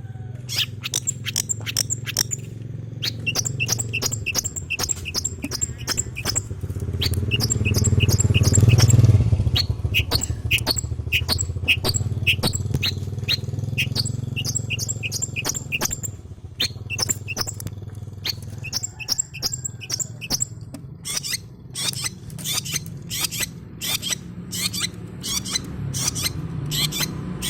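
Young long-tailed shrike chattering and practising its song: rapid runs of short, sharp chirps and clicks. A low rumble runs underneath, loudest about nine seconds in.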